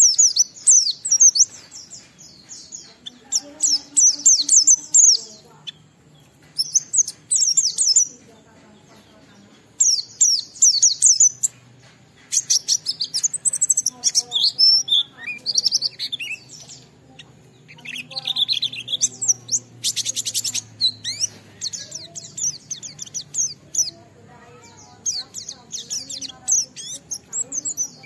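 A white-eye (pleci) singing a long, rapid twittering song in quick high phrases broken by short pauses, with a fast buzzy trill about two-thirds through.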